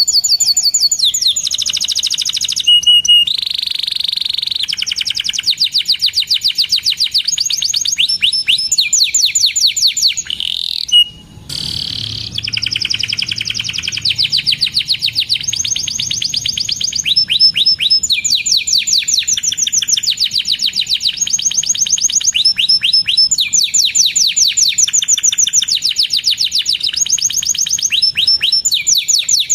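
Domestic canary singing: long, fast trills of repeated high, down-sweeping notes that run on with hardly a break, except for a short drop about eleven seconds in.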